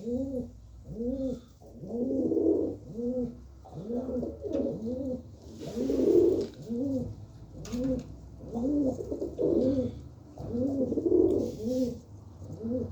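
Domestic pigeons cooing: a steady run of short coos, each rising and falling in pitch, about two a second.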